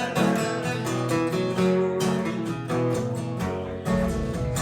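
Acoustic guitar strumming chords in a steady rhythm, an instrumental passage between sung lines of a song.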